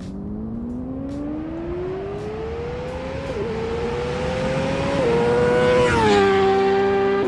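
Honda CBR1000RR-R Fireblade SP's inline-four engine through a Leo Vince slip-on exhaust, accelerating hard toward the camera: the revs climb, it shifts up twice, and the pitch falls as it passes by at its loudest near the end.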